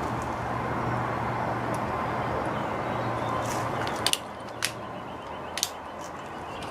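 Wind rushing over the microphone with a low hum. About four seconds in, a pre-charged air rifle fires a .177 pellet with a sharp double crack. A click follows half a second later and a pair of clicks about a second after that.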